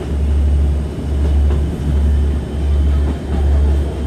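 Passenger train running along the rails, heard from inside the carriage: a loud, steady low rumble that pulses with a regular dip about every three-quarters of a second.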